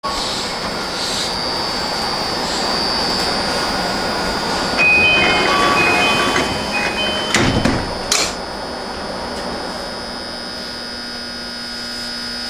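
Interior running noise of a Tokyu 8500 series train car, steady with a constant high tone. A short series of electronic beeps comes about five seconds in, and two heavy clunks follow about two seconds later.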